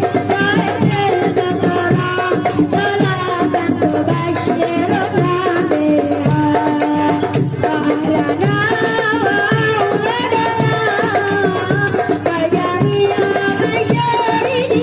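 Marawis ensemble playing: hand drums beating a steady, driving rhythm, with group singing of sholawat over it.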